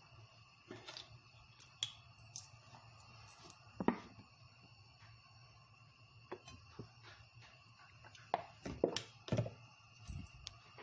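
Scattered clicks and knocks of kitchen utensils and cookware being handled, over a steady low hum. One sharper knock comes about four seconds in, and a quick cluster of knocks near the end.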